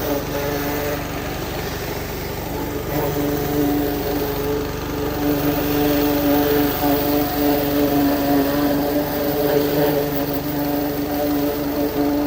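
An engine running steadily, its hum swelling and easing a little.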